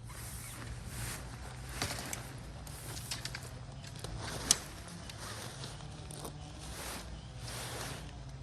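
Footsteps crunching on the ground at a walking pace, with a single sharp click about halfway through and a steady low hum underneath.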